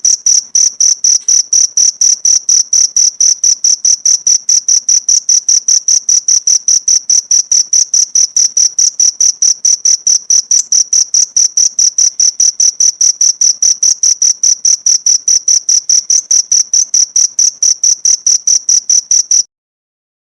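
Cricket chirping: a loud, high-pitched, very regular train of short chirps, about five a second, that cuts off suddenly near the end.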